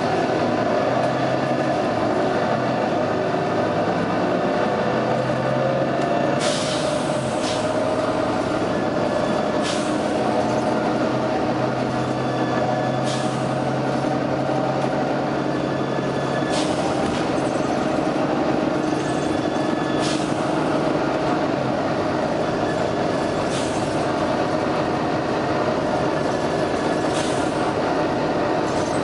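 Volvo B9TL double-decker bus running, its six-cylinder diesel and drivetrain droning steadily, with short sharp air hisses from the bus's air system recurring about every three to four seconds.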